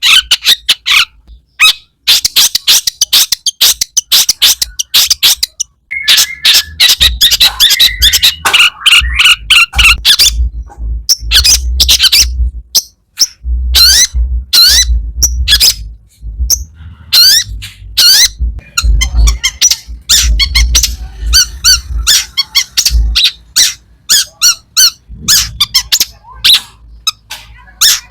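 Long-tailed shrike (cendet) singing non-stop: a rapid string of short, harsh chattering and squeaky notes with mimicked phrases of other birds, broken by brief pauses, over a low thumping in the middle part.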